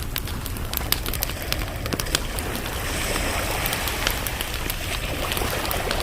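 Campfire crackling, with many sharp irregular pops over a steady hiss and low rumble of wet, windy weather.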